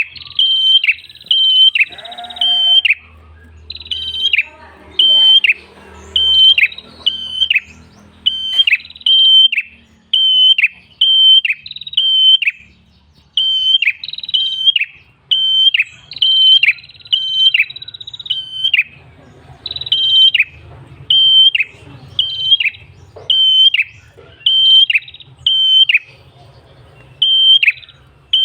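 Tailorbird (prenjak kepala merah) singing a loud, repeated song of sharp, high chirps. They come in quick runs of two to four, about one to two a second, and a few runs open with a longer falling whistle.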